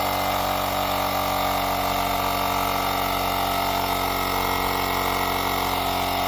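Portable battery-powered mini air compressor running steadily with an even mechanical drone, inflating a flat motorcycle tyre.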